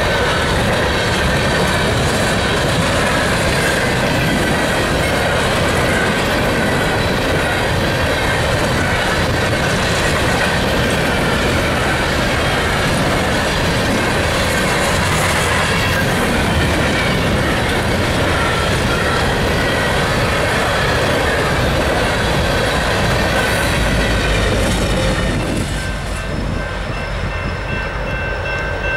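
Empty steel coal gondolas of a freight train rolling past close by: a steady rumble and clatter of wheels on rail, with a wavering high squeal of wheel flanges on top. The sound drops off and thins out a few seconds before the end as the last cars pass.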